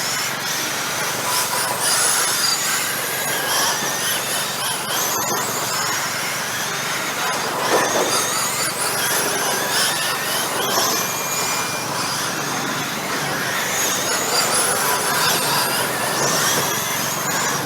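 Several radio-controlled trucks racing round a track: overlapping high-pitched electric motor whines rising and falling as they accelerate and brake, with squealing throughout.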